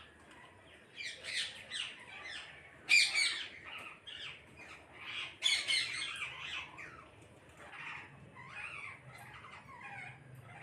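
A flock of parrots squawking, with many short, harsh calls overlapping. The loudest calls come in two bursts, about three and five and a half seconds in, and softer calls carry on after them.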